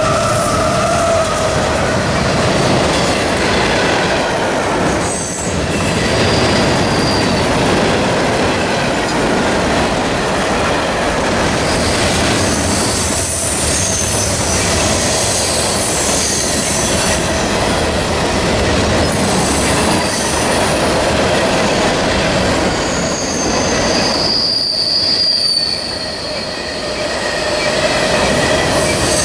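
A CSX freight train of covered hopper cars rolling past, wheels running over the rails in a steady rumble and rattle, with high-pitched wheel squeal rising and fading several times.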